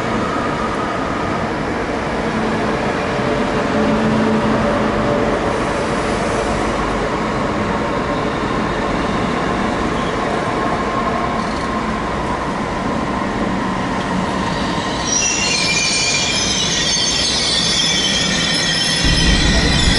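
A TCDD YHT high-speed train pulling in along the platform: a steady rumble and hum from the passing cars. About fifteen seconds in, high squeals from the wheels and brakes join in.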